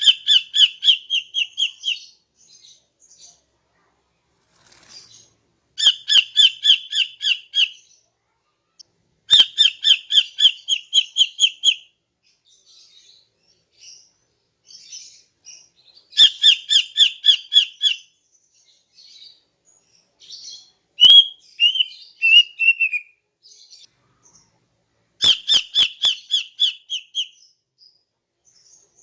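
Female green leafbird (cucak ijo) calling: five quick runs of about ten sharp, evenly spaced notes, each run lasting about two seconds, with soft chirps between and one falling warbled phrase about three-quarters of the way through.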